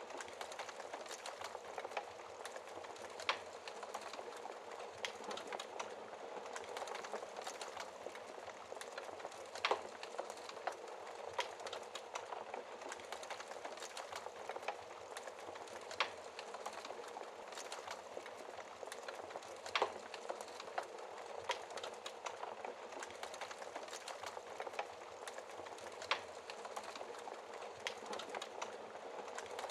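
Wood fire crackling: a steady soft hiss of burning logs with irregular sharp pops and snaps, a few louder ones about ten and twenty seconds in.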